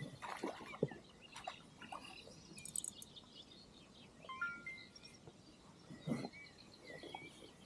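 Faint scattered clicks and small knocks, with a short bird call about four seconds in.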